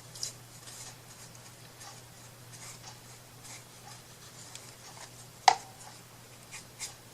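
Light handling noises of craft pieces on a work surface: faint rubs and small taps, with one sharp knock about five and a half seconds in, over a low steady hum.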